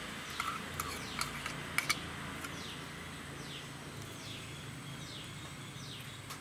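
A bird repeating a short falling call a little more than once a second. A steel spoon clicks against a small bowl a few times in the first two seconds, sharpest just before the two-second mark.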